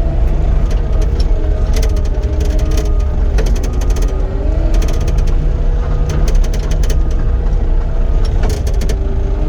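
Cat 259D compact track loader working: a steady diesel drone with a hydraulic whine that bends up and down in pitch as the load changes. Several runs of rapid clicking and rattling from the machine are heard over it.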